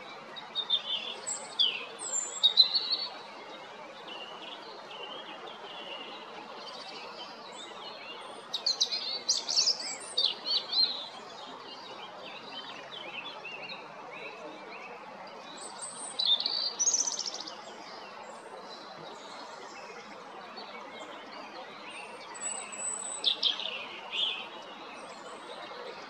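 European robin singing: four short, high, warbling song phrases with pauses of several seconds between them, over steady background noise.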